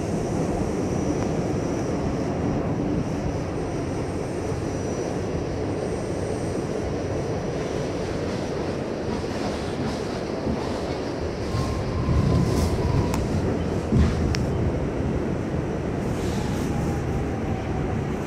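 R68 subway train running at speed, heard from on board: a steady rumble and rush of steel wheels on rail. It swells louder about twelve seconds in, with a sharp knock a couple of seconds later and faint thin squeals.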